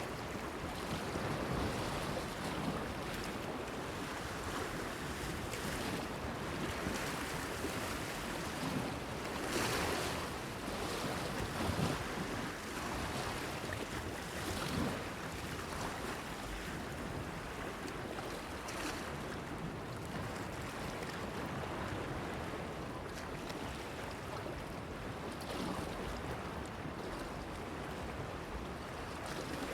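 Sea waves washing and splashing against a breakwater, with wind on the air: a steady wash with louder splashes every few seconds.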